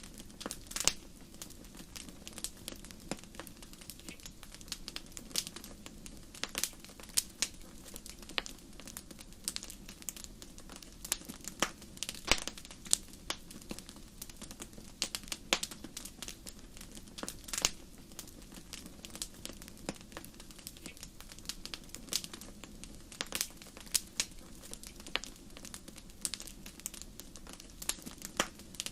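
Wood fire crackling in a fireplace: irregular sharp pops and snaps, several a second and some much louder than others, over a steady low background.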